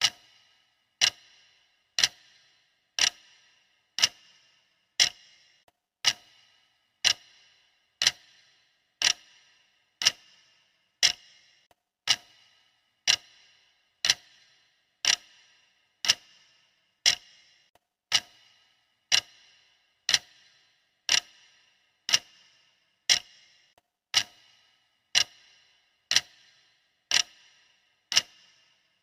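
Clock-tick sound effect of a countdown timer: one sharp tick every second, each with a brief ringing tail, steady and even in level.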